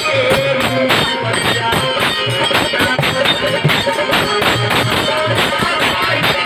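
Purvi folk music with a fast, steady beat of percussion strokes and jingles under a wavering melody line.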